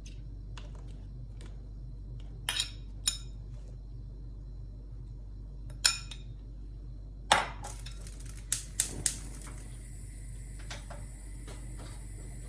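A utensil knocking and clinking against a cooking pot while peppers and mushrooms frying in oil are stirred: about seven sharp, separate knocks, three of them in quick succession near the end, over a steady low hum.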